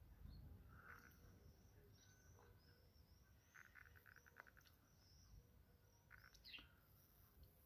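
Near silence, with faint high chirps of small birds in the background and a short run of soft clicks near the middle.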